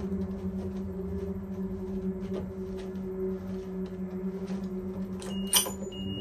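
A low, steady droning hum from a film's tense score, held on one unchanging pitch, with faint ticks and a sharp click near the end.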